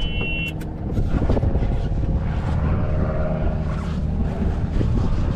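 A golf cart running along: a steady low rumble with a faint motor hum.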